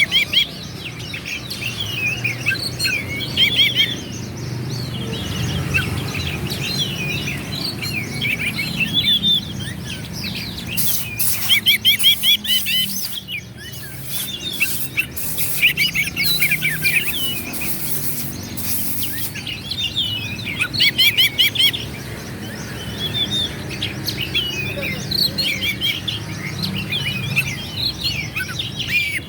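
Oriental magpie-robin singing, quick and varied phrases of chirps and whistles, with a run of harsh, scratchy notes about halfway through.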